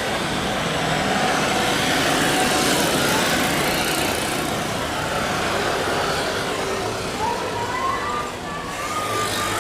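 Airbus A350-941's Rolls-Royce Trent XWB turbofans roaring at takeoff thrust. The roar swells in the first few seconds, then eases slightly, and a wavering whine joins it near the end.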